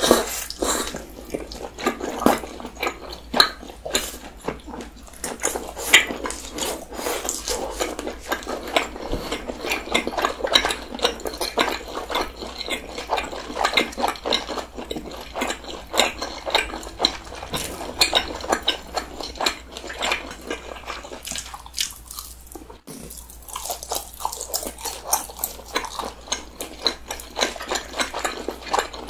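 Close-miked chewing of two people eating sausage-and-rice-cake skewers: a steady stream of quick mouth clicks and smacks, with a short break about three quarters of the way through.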